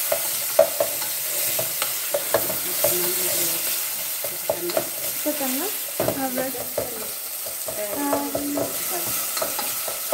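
Chopped tomatoes and chili peppers sizzling as they fry in an aluminium pot, under a steady hiss. A wooden spoon stirs and scrapes them against the pot in quick, irregular clicks and knocks.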